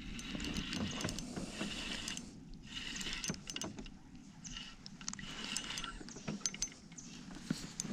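Fishing reel being cranked in stretches to bring in a hooked fish from a kayak, with scattered small clicks and knocks of tackle against the boat.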